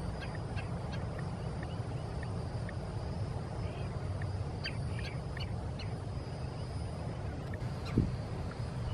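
Birds calling in short, high chirps, several in quick succession around the middle, over a steady low rumble of wind on the microphone. A brief knock near the end.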